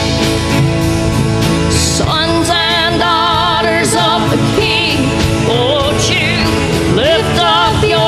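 A live church worship band plays on between sung lines: full band with sustained chords. From about two seconds in, a wavering, vibrato-laden melody line rises over it.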